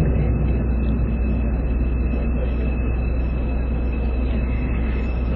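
Steady running noise of a TRA DR1000 diesel railcar under way, heard from inside: a low engine drone mixed with wheel and rail noise, and a thin steady high whine over it.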